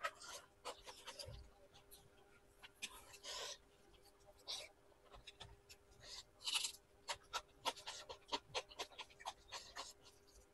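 Close-miked eating sounds: wet chewing and lip smacks from a mouthful of chicken liver and gizzard curry with rice, an irregular run of short clicks and smacks. Fingers squish and rub through rice on the plate at the same time.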